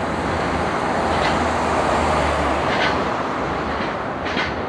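A train running on track: a steady rolling rumble.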